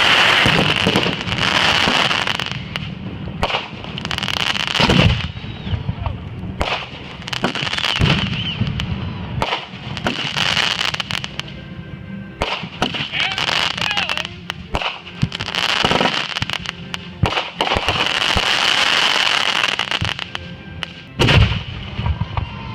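Consumer fireworks going off in a rapid series: repeated crackling swells, each a second or two long, broken by sharp bangs. The loudest bangs come about five seconds in and near the end.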